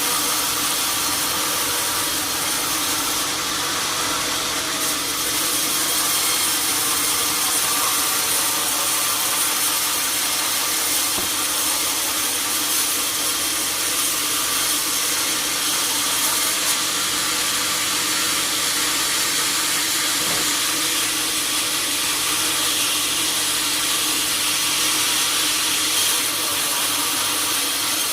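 Sawmill saw running through wood, a steady hiss that holds at an even level throughout.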